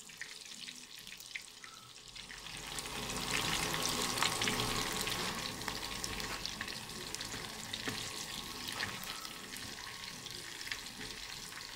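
Chicken pieces deep-frying in hot oil in a pan, sizzling and crackling as they are stirred with a metal spoon. The sizzle grows louder about three seconds in, then slowly eases off.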